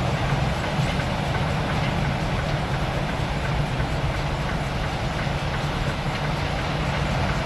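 Semi-truck running steadily in the cab: diesel engine hum under road noise, with the clatter of tire chains on the tires.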